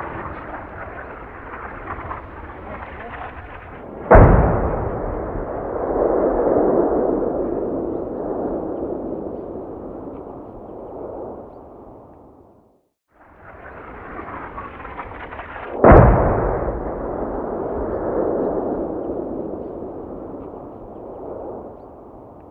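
Explosion sound effect, played twice: each time a few seconds of noise, then a sudden boom that dies away slowly over about eight seconds.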